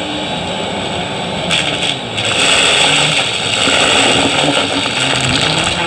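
Vacuum cleaner running steadily, getting louder and brighter about two seconds in.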